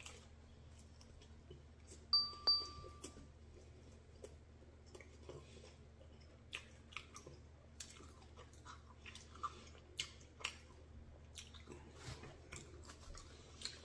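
Faint chewing of a fried beef-and-cheese pastelillo, with scattered small wet mouth clicks. Just after two seconds in, a brief ringing electronic tone sounds and fades within about a second; it is the loudest sound.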